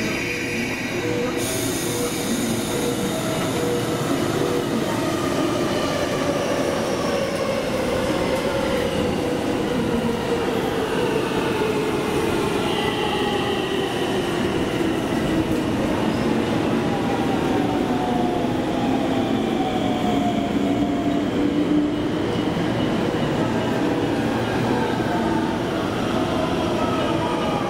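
Electric commuter train pulling in along a station platform, its motor whine falling steadily in pitch as it brakes, over the rumble of the wheels.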